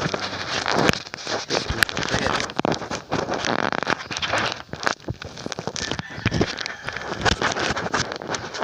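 Handling noise right on a microphone as a rubber balloon and tape are fitted over it: irregular crackling, rubbing and scraping with many small clicks.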